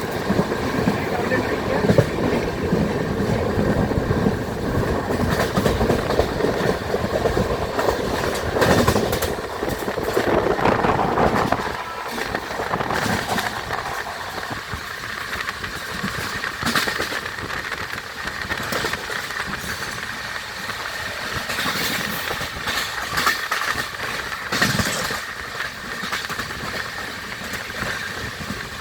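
Passenger train running on the rails, loud for about the first twelve seconds, then quieter, with scattered sharp clicks.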